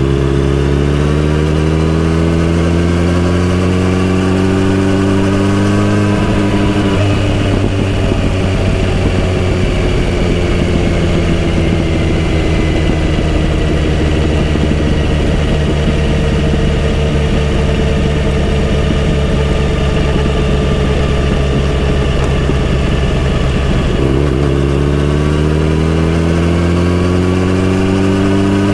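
Kawasaki Z900RS inline-four motorcycle engine and exhaust under way. The pitch rises for about the first six seconds, falls slowly over a long stretch, then rises again near the end, with wind and road noise throughout.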